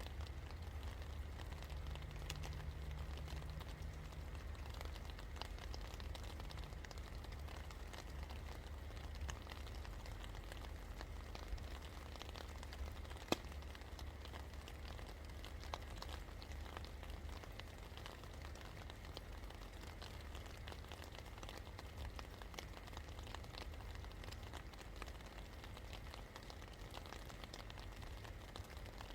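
Steady rain falling, with many small raindrop ticks and one sharper drip about halfway through, over a low steady rumble.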